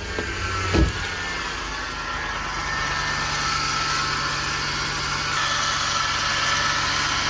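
SUV engine idling with a steady whining hum like a power steering pump short of fluid, which the mechanic traces to a small belt pulley that is starting to bind. A single knock comes about a second in, and the engine and whine get somewhat louder about three seconds in.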